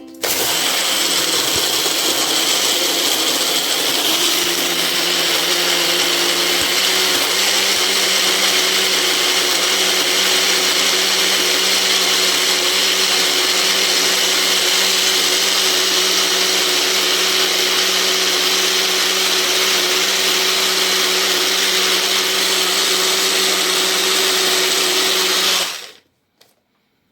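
Electric countertop blender running steadily, blending soaked rice and orange peel with water into a paste, then switched off suddenly near the end.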